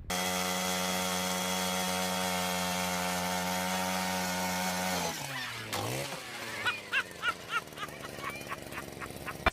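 A small engine or motor running at a steady pitch, which drops sharply about five seconds in. After that comes a run of short high chirps, about three a second.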